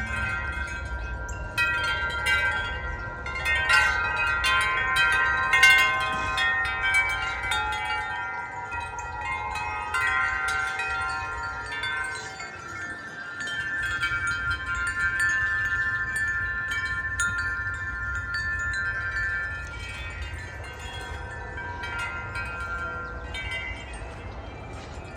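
Wind chime ringing in gusty wind: many overlapping struck tones that ring on, busiest in the first several seconds, then fewer strikes. There is a low wind rumble underneath.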